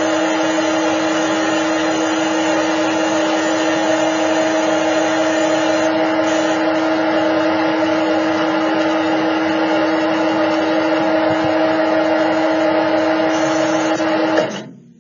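CNC lathe spindle motor running with a steady, unchanging whine over a noisy hiss, as in a machining simulation; it cuts off suddenly near the end.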